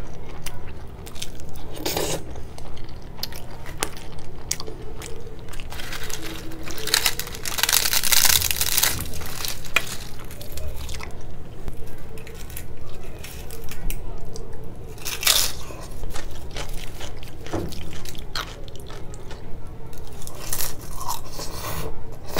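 Close-miked eating sounds: chewing and crunching of hard-fried puri dipped in dal, with scattered clicks and several louder crunches, the longest about eight seconds in.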